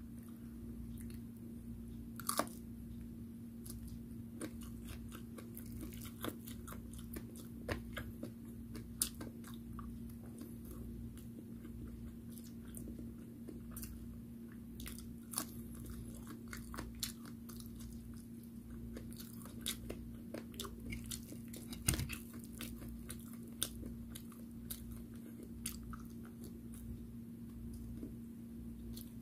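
Close-up chewing and biting of fried food, with scattered short crunches and clicks of the mouth and teeth. Under it runs a steady low hum.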